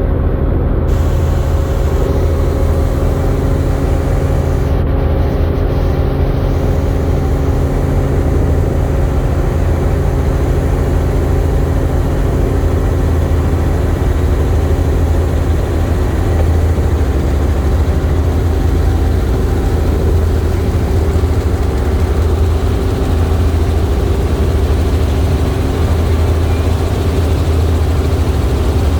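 Helicopter in flight: a loud, steady drone of rotor and engine with several constant tones, mostly low-pitched, unchanging throughout.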